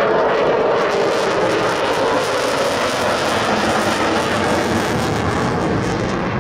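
Lockheed Martin F-22 Raptor's twin Pratt & Whitney F119 afterburning turbofans, a loud steady jet noise as the fighter flies its demonstration.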